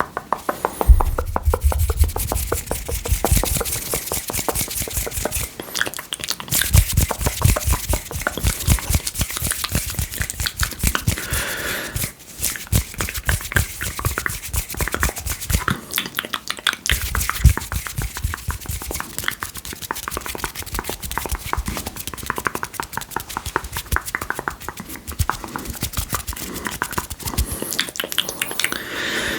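Close-miked wet mouth sounds of ASMR spit painting: a dense, rapid stream of wet clicks and smacks, with a low rumble under them in several stretches.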